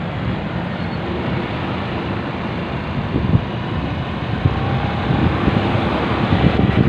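Motorcycle riding on the road: engine and road noise with wind buffeting the microphone, the gusts growing stronger near the end.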